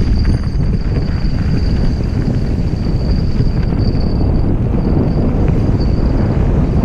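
Mountain bike clattering and rattling at speed over a rough, rocky dirt trail, with wind buffeting the microphone and a thin steady high tone underneath.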